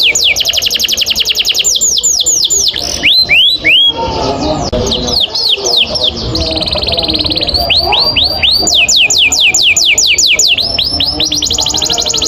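Domestic canary singing long rolls: rapid trills of high notes that each sweep downward, shifting into slower repeated sweeping notes and a short held buzzy note midway, then back into a fast trill near the end.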